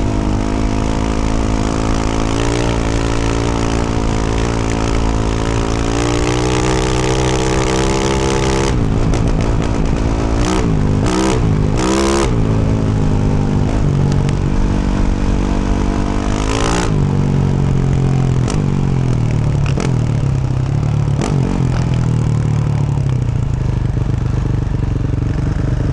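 2024 Yamaha YZ450F's single-cylinder four-stroke engine running through a Yoshimura RS-12 exhaust under riding load. Its revs hold steady at first, rise and fall sharply several times around nine to twelve seconds in, climb again, then settle lower for the rest.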